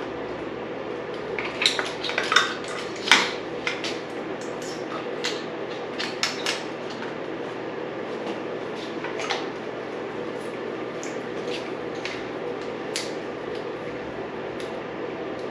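Irregular sharp clicks and clinks of hand work on the dirt bike: wiring connectors being unplugged and handled, busiest in the first few seconds, over a steady background hum.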